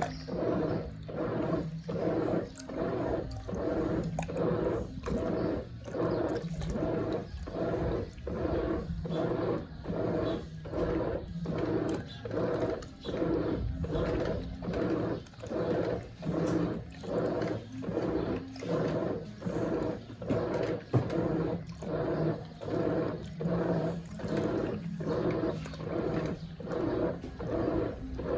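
Brastemp Eggo 1 kg mini washing machine agitating a wash load: water churning in an even, repeating rhythm of about one and a half surges a second over a steady motor hum.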